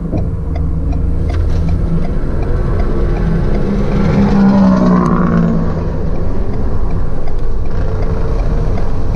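Ford Bronco Sport First Edition's 2.0-litre turbocharged four-cylinder engine pulling at full throttle from a standing start, heard from inside the cabin. Its pitch rises with the revs, drops at an automatic upshift about five seconds in, then climbs again.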